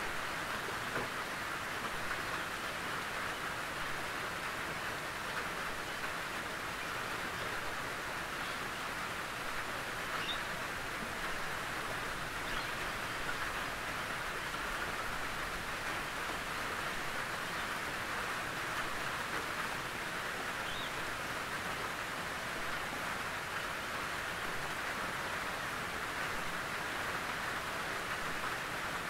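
Steady rain falling on a tin roof, an even patter with a few faint distinct drops ticking above it.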